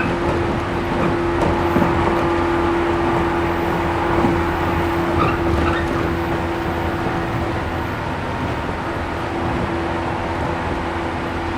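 Resistance-controlled 113 series 1500 electric multiple unit running at a steady speed, heard inside the passenger car: wheel and track rumble with a steady hum.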